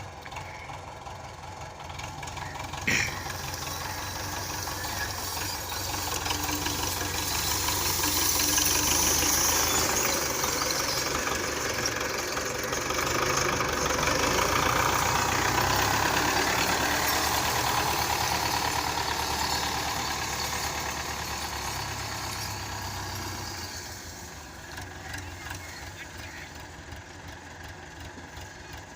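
Tractor diesel engine working hard under load, as when straining to pull a loaded trolley out of mud: it grows louder from about five seconds in, stays loud for some fifteen seconds, then eases off near the end. A sharp knock about three seconds in.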